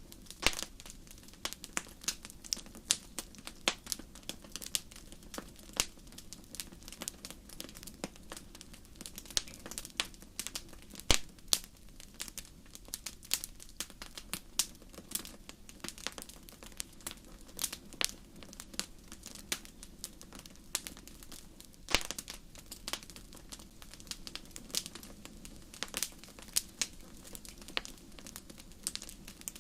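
Wood campfire crackling, with irregular sharp pops several times a second over a steady low rush of flame. A few louder pops stand out, one about eleven seconds in and one about twenty-two seconds in.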